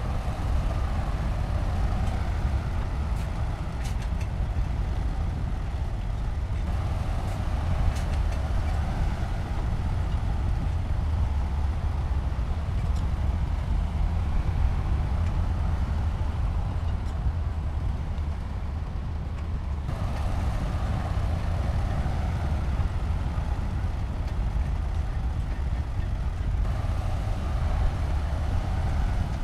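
Shantui bulldozer's diesel engine running steadily under work, a deep continuous rumble with a few faint metallic clinks. The sound changes abruptly a few times.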